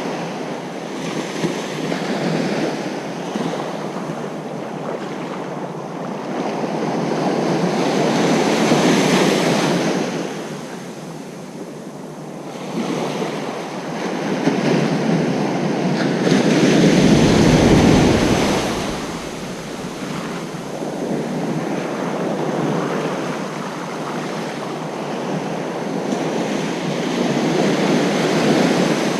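Ocean surf breaking on a beach, a continuous wash that swells and ebbs as waves come in. The biggest wave crashes a little past the middle, with a deep rumble under it.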